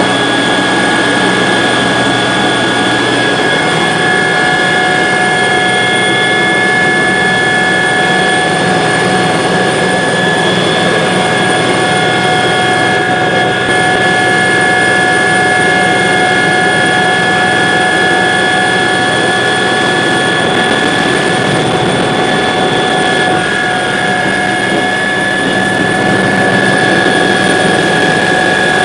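Helicopter engine and rotors heard from inside the cabin during flight: a loud, steady drone with several steady whine tones over a dense rushing noise.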